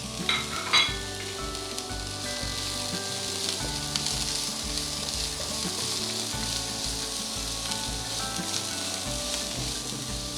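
Chopped onions sizzling steadily in hot coconut oil with fennel seeds in a frying pan, at the start of sautéing. Two sharp knocks come near the start as they go into the pan.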